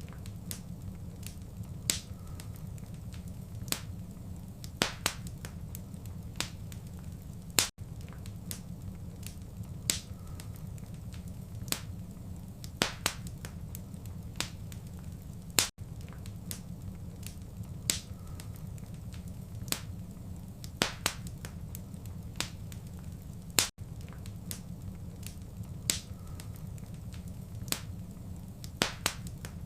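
Wood fire crackling in a fireplace: sharp, irregular pops and snaps over a steady low rumble of the flames. The sound cuts out for an instant about every eight seconds, where the recording loops.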